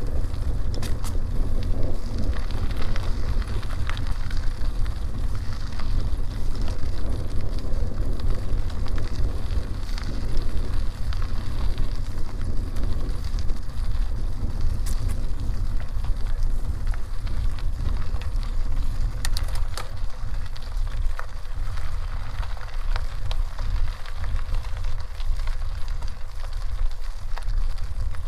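A moving bicycle: wind rumbling on the microphone, with the tyres crackling over a dirt road and scattered small clicks.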